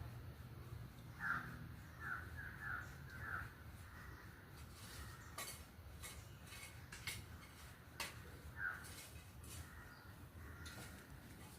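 Bird calls: a quick series of about five short calls in the first few seconds and one more past the middle, over a faint steady low hum with scattered clicks.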